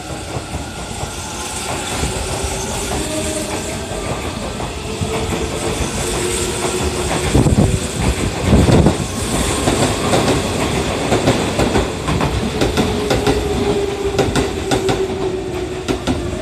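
Hanshin 1000 series electric commuter train pulling out of the station and gathering speed. Its wheels clatter rhythmically over the rail joints, and the clatter grows louder and denser from about halfway through, over a steady running rumble with a faint motor tone.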